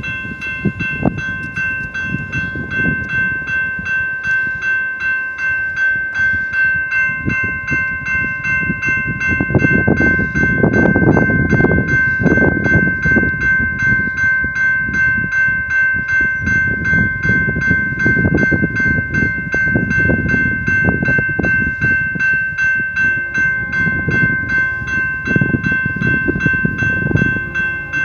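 BNSF intermodal freight train passing at speed, its wheels rumbling on the rails in swelling waves, loudest around the middle. A rapid, evenly repeating ringing tone sounds over it.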